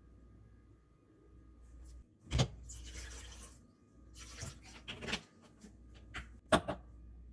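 Kitchen handling noises: a sharp knock about two seconds in and another, louder one near the end, with a few lighter clicks and stretches of scraping noise between them.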